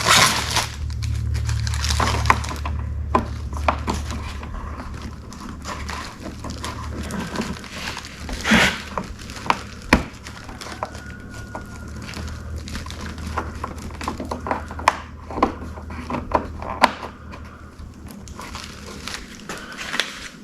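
Scattered clicks and knocks of hard plastic being handled as bulbs are swapped in a car headlight assembly, over a steady low hum.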